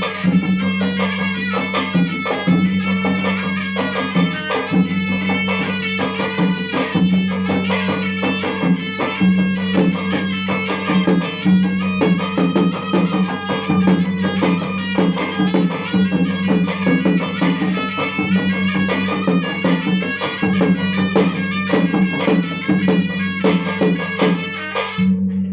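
Traditional Bugis gendang drumming in the pamancca style: fast drum strokes under a melodic wind-instrument line and a steady low drone. The melody and drums stop suddenly near the end, leaving the drone.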